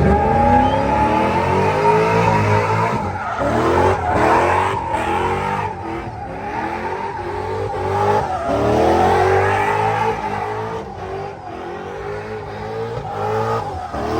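Engine revving hard again and again, its pitch climbing several times, over a steady screech of squealing tyres, typical of a vehicle being drifted.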